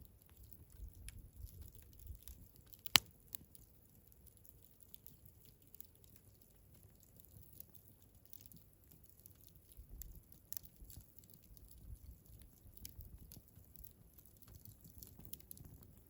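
Wood fire crackling in a Picogrill 398 fire pit: scattered small pops and ticks, with one sharp, much louder pop about three seconds in.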